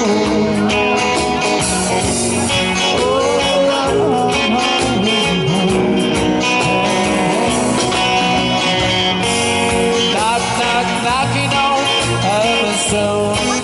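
A live rock band plays an instrumental passage: a guitar melody with bending notes over bass and a steady drum beat.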